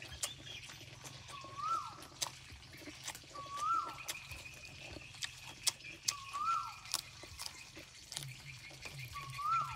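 A bird calls repeatedly: a short whistled note that rises and then drops, four times, two to three seconds apart. A faint steady high tone joins about four seconds in, and soft clicks of chewing and chopsticks run underneath.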